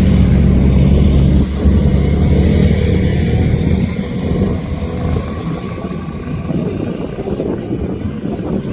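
Motorcycle engine running, loud with a low steady note for the first second and a half, then rougher and gradually quieter.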